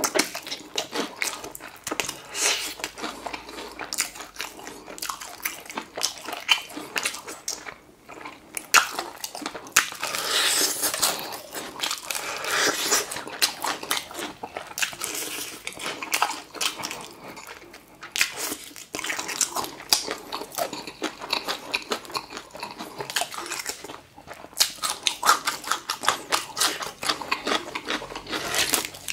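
A person biting and chewing crispy, crumb-coated fried chicken, with many crackling crunches of the crust in quick, uneven succession.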